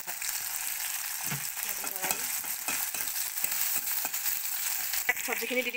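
Chopped onions and chillies sizzling as they fry in hot oil in a kadai, with a steel spatula stirring and scraping against the pan. There is a sharp knock of the spatula about five seconds in.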